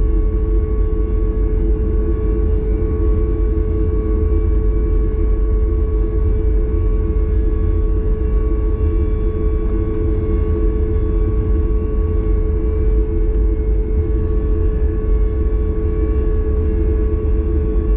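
Boeing 737 MAX 8 airliner cabin noise: a loud, steady drone of the CFM LEAP-1B engines and airflow heard from inside the cabin, with a constant hum tone riding on a deep rumble.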